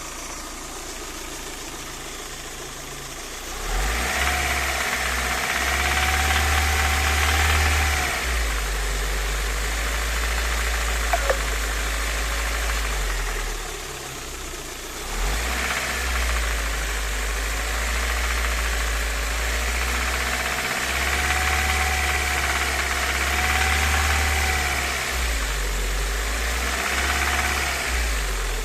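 VAZ-21124's four-cylinder engine idling, then held above idle twice, from about four seconds in and again from about fifteen seconds in, dropping back toward idle in between. Above idle it rattles, a rattle that the owner places in the cylinder head; it is absent at idle and shows on a warm engine.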